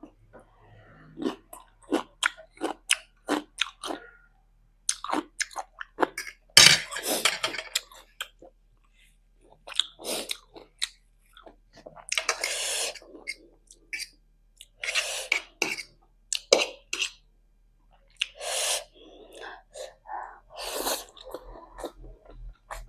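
Close-miked chewing of instant noodles: a run of quick, wet mouth clicks broken by several noisy bursts about a second long.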